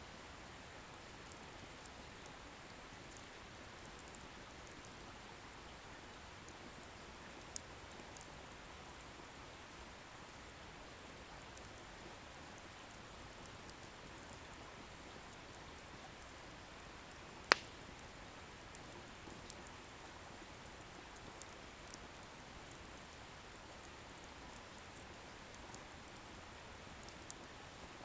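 Wood bonfire burning with a soft steady hiss and scattered small crackles from the firewood. One sharp loud pop comes about two-thirds of the way through.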